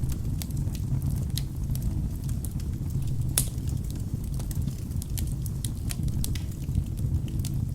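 Wood fire burning in a fireplace: a steady low rumble of flames with scattered crackles and pops of burning logs, one louder pop about three and a half seconds in.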